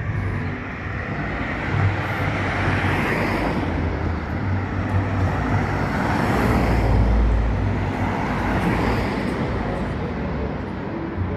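Road traffic: vehicles passing close by, the tyre and engine noise swelling and fading, loudest about six to seven seconds in.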